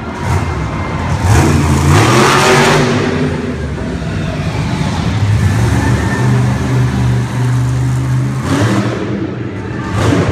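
Monster truck engine revving hard, its pitch rising in the first couple of seconds, then running at a high steady pitch for several seconds before surging again near the end.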